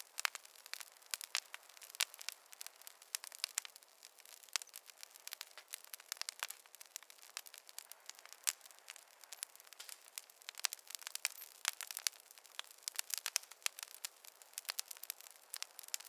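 Campfire crackling: a dense, irregular stream of sharp pops and snaps from burning wood, steady throughout.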